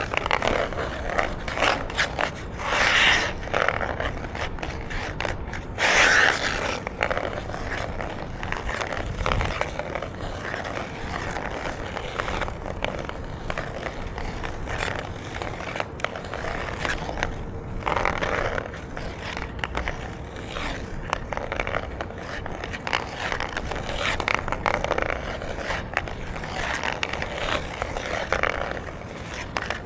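Ice hockey skate blades scraping and gliding on ice, with harder, louder scrapes every few seconds as the skater pushes, turns or stops.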